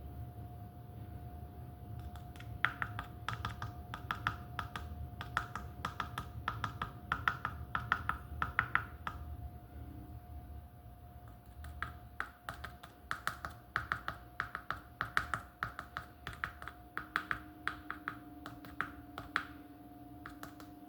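Repeated light taps or clicks, about two to three a second, in two runs with a pause about ten seconds in, over a faint steady hum.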